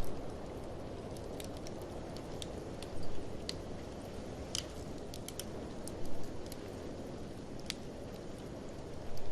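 Wood fire crackling in a fireplace, with sharp irregular pops over a steady rushing of blizzard wind. A few louder bursts come about every three seconds.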